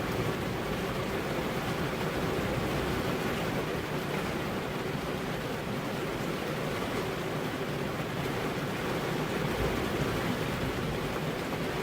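Heavy rain falling steadily on a car's windows, an even wash of noise with no single drops or thunder standing out.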